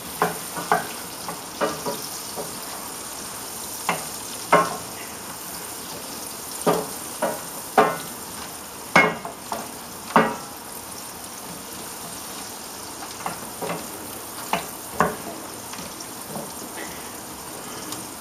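Shallots and garlic frying in butter and olive oil in a stainless steel pan, a steady sizzle, with a wooden spoon knocking and scraping against the pan at irregular intervals as they are stirred.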